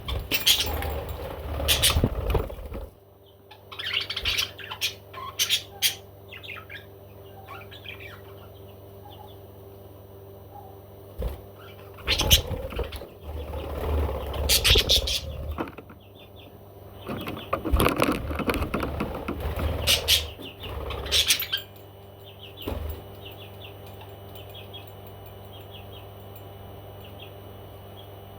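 Pet parrot chirping and flapping its wings in several bursts, with quieter stretches between them. A steady low hum runs underneath.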